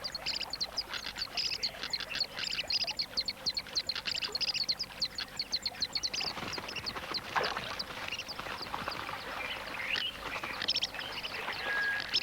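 Malachite kingfishers in a territorial squabble with a neighbouring bird, giving rapid shrill high-pitched calls, many a second. About halfway through the calls become sparser and more varied, some sliding in pitch.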